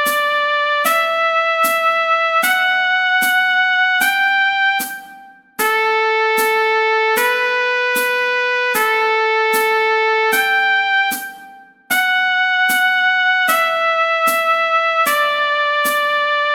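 Trumpet playing a slow scale exercise: held notes stepping up and then back down, one to a beat, with a click marking each beat. The line breaks off twice for a brief pause.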